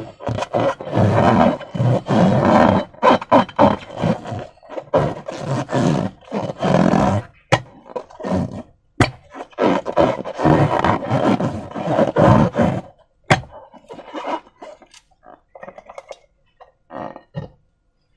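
Slime squeezed and stretched by hand: irregular wet squelching surges, with a few sharp snaps along the way, thinning to quieter, scattered squishes in the last few seconds.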